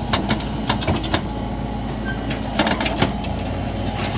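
Heavy equipment engine running steadily, with bursts of knocking and clanking from the load being worked: a cluster in the first second, another around three seconds in, and one more near the end.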